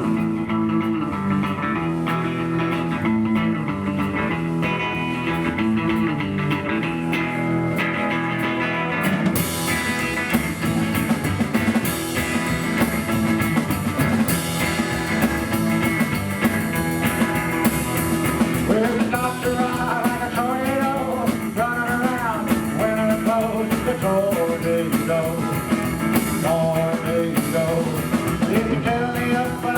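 Live rockabilly band playing: electric guitar and upright double bass, with drums and cymbals coming in about nine seconds in. A man's voice starts singing a little past the halfway point.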